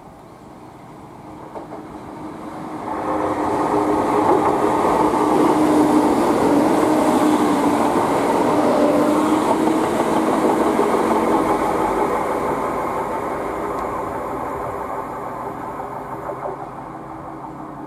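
Greater Anglia Class 170 Turbostar diesel multiple unit passing close by. Its diesel engine hum and the wheels on the rails grow louder over the first few seconds, stay loud for several seconds, then slowly fade.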